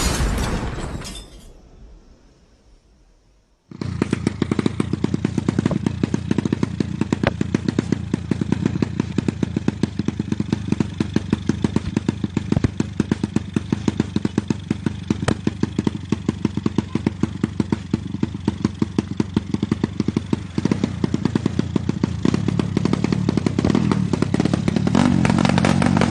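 A drag-racing motorcycle engine running steadily with rapid, even firing pulses. It starts abruptly about four seconds in, after a loud noise fades away, and grows a little louder in the last third.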